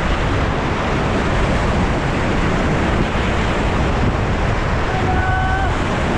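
Roar of whitewater rapids close to the microphone, a steady rushing noise. A short held shout rises above it about five seconds in.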